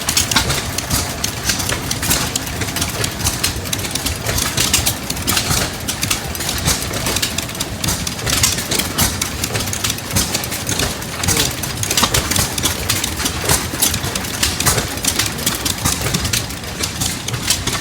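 Several antique stationary gas engines running at once: a low steady chugging with many irregular sharp exhaust pops.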